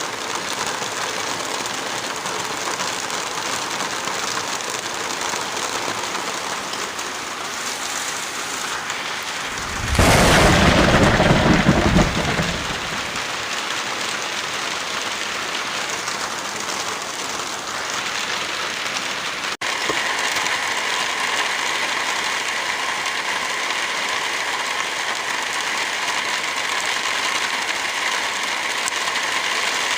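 Steady heavy rain. About ten seconds in, a loud, deep burst lasts about two seconds and then cuts off. Near twenty seconds the rain breaks off for an instant and resumes with a slightly different, hissier texture.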